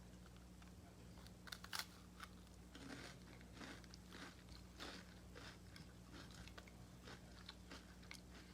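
Faint crunching and chewing as a crisp, chocolate-topped sandwich cookie is bitten into and eaten, in a run of short, irregular crunches.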